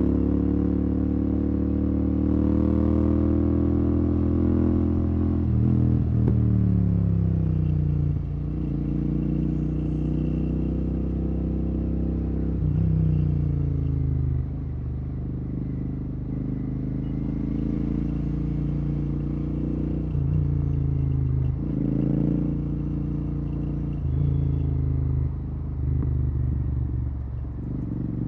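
Royal Enfield Continental GT 650's parallel-twin engine running through a Red Rooster aftermarket exhaust with no dB killer, riding in traffic. The exhaust note climbs and falls several times as the throttle is opened and closed, with sudden drops in pitch.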